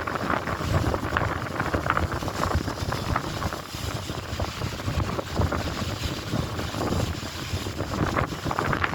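Strong wind buffeting the microphone with a steady low rumble, over choppy lake water splashing and lapping.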